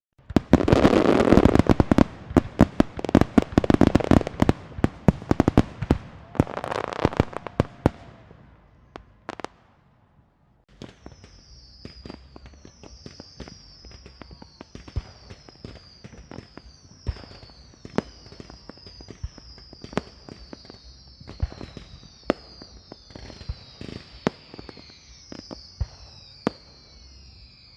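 Fireworks: a dense, rapid string of firecracker bangs and crackles for about eight seconds, then scattered single bangs and pops. From about eleven seconds in, a high, short falling chirp repeats over and over under the bangs.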